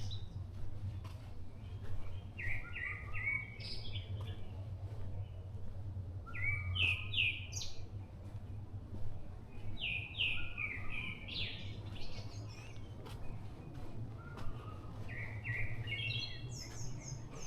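A songbird singing four phrases a few seconds apart, each a quick run of short notes that climb in pitch, over a steady low hum of distant traffic and trains.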